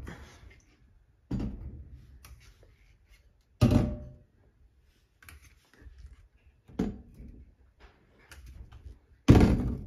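Household thuds and knocks, like doors or objects being set down: four sharp knocks a couple of seconds apart, the last the loudest, with fainter clatter between them.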